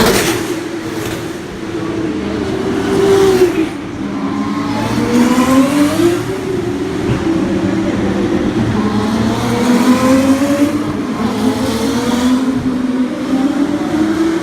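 Formula 2 racing cars' turbocharged V6 engines at racing speed, several cars at once, their engine notes rising and falling in pitch as they accelerate, shift and slow. The loudest moments are at the very start and about three seconds in, the second dropping away sharply just before four seconds.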